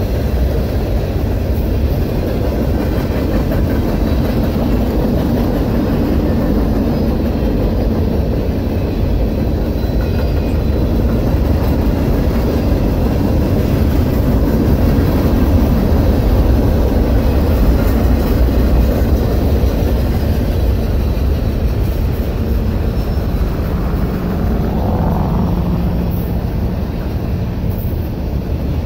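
Steady rumble and rattle of a long manifest freight train's cars (gondolas, boxcars, autoracks) rolling past on the rails, with a brief rising whine near the end.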